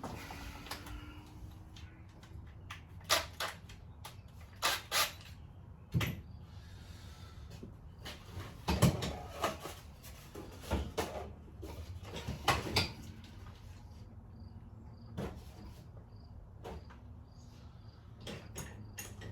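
Irregular knocks, clicks and clatter of tools and parts being picked up and moved about while rummaging through a cluttered garage, loudest about nine and thirteen seconds in.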